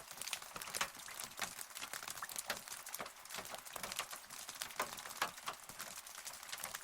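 Rain falling, with many separate close drops landing in a quick, irregular patter over a steady hiss.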